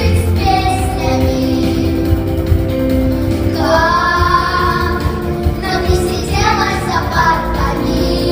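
Child singing a song with a backing track of instrumental accompaniment, holding long sustained notes.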